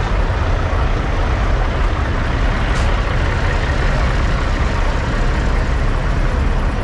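Semi trucks' diesel engines running, a loud, steady, low rumble, with one brief sharp high sound about three seconds in.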